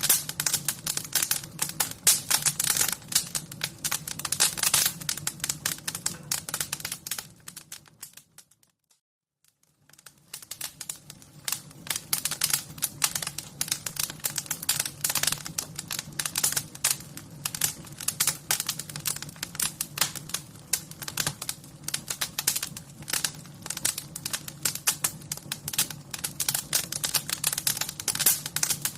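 Wood fire crackling: a dense, irregular run of small pops and snaps over a low steady rumble. About eight seconds in it fades to silence for around two seconds, then fades back in.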